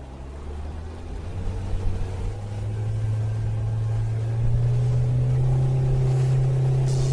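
Mitek 15hp electric outboard driving a Rigiflex 360 boat as it speeds up: a low steady hum that rises slightly in pitch and grows louder over the first four seconds or so, then holds, over a rushing noise.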